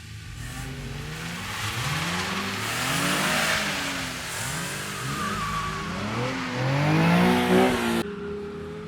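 Drift car's engine revving hard, its pitch repeatedly climbing and dropping as the driver works the throttle through a slide, over a broad rushing noise that swells around the middle. Shortly before the end the sound cuts abruptly to a steadier, lower engine note.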